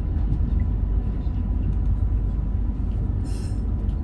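Meitetsu Panorama Super limited express train running, a steady low rumble, with a short hiss about three seconds in.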